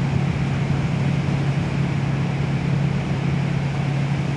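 Kawasaki Vulcan motorcycle engine running at a steady cruise, one constant drone with no change in revs, over a steady rush of noise.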